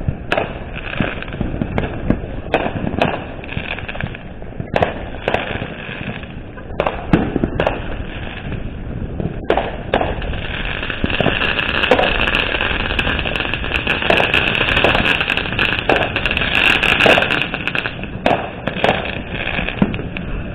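Neighbourhood fireworks and firecrackers going off all around, a string of sharp bangs and pops at varying loudness. From about ten seconds in until near the end they pile up into near-continuous rapid popping.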